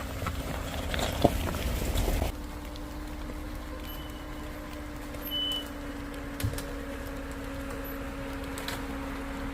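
A vehicle driving a rough dirt forest road, heard from inside the cab: a steady engine and road drone, with knocks and rattles for the first two seconds, then smoother running. Two short high beeps a few seconds in.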